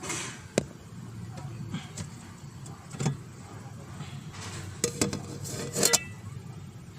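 Fuel pump assembly being handled and fitted back into place: a series of sharp clicks, knocks and short scrapes of parts, with the loudest cluster about five to six seconds in.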